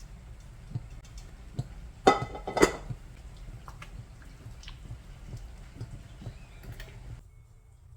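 Light taps and clicks of kitchen utensils and dishes being handled, with two louder clinks about two seconds in that ring briefly. The background hum drops out near the end.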